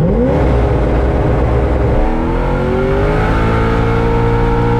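High-horsepower car engine under hard acceleration: the revs climb sharply, break about two seconds in, climb again, then hold at a steady high pitch.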